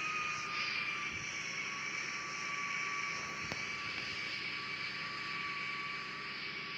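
Airbus A340 airliner's jet engines heard on landing: a steady rushing noise with a high whine that slowly falls a little in pitch.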